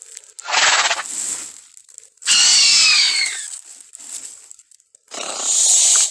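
Velociraptor vocal sound effects made for the film raptor Blue: three separate calls of about a second each, the middle one the loudest and falling in pitch, the last cut off abruptly.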